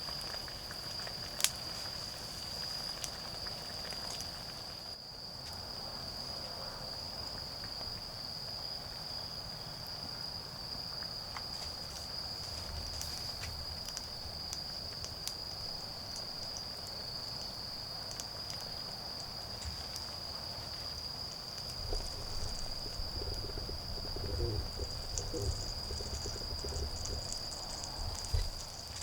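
Autumn insects chirring in one steady, unbroken high-pitched drone, over a wood fire crackling with occasional sharp pops. From about three-quarters of the way through, rustling and handling noises come in with low thuds.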